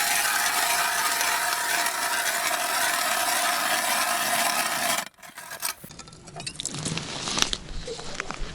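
Ice auger boring through river ice: a steady, harsh scraping crunch that stops suddenly about five seconds in. Quieter scattered knocks and scrapes of ice follow.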